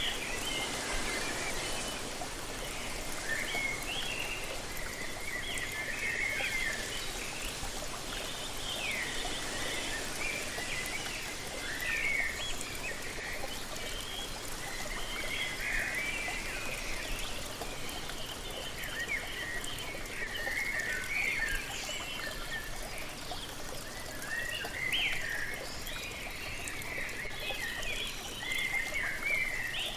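Steady rushing of a waterfall, with many birds chirping and singing over it in short, overlapping phrases throughout.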